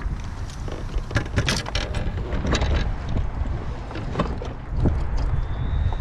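Wind rumbling on the microphone aboard a fishing kayak, with about half a dozen sharp knocks and rattles scattered through it from gear and the caught fish being handled on the hull.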